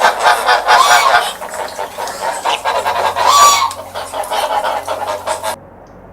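A flock of birds calling noisily: rapid, overlapping honking squawks, stopping abruptly about five and a half seconds in.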